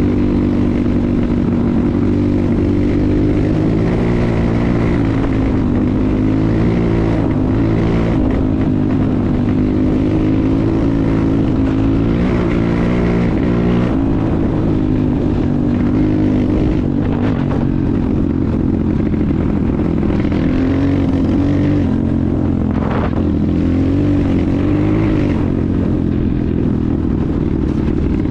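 A 250 cc enduro motorcycle engine running under way, its pitch rising and falling gently as the throttle is worked, with a few brief knocks about two-thirds of the way through.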